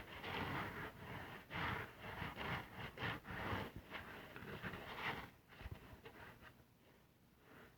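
Soap-lathered car sponge being squeezed and worked by hand: irregular wet squishing and crackling of lather, easing off after about five seconds.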